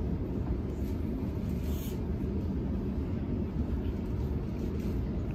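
Steady low rumble inside a Sydney Trains Millennium (M set) electric train carriage running along the track.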